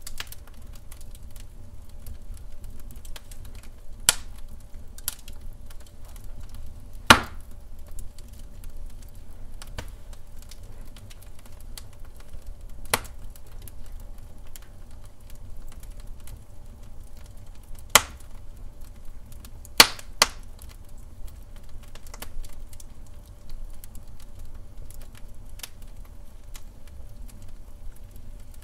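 Wood fire burning in a fireplace: a steady low rumble with irregular crackles and sharp pops, the loudest about 4, 7, 13, 18 and 20 seconds in.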